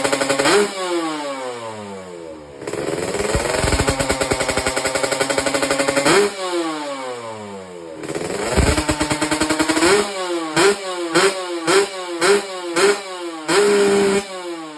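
Yamaha RX-King motorcycle with a swapped-in Kawasaki Ninja two-stroke engine being revved. It is held high and let fall away in pitch three times, then given about five short, quick throttle blips and one last held rev before dropping back.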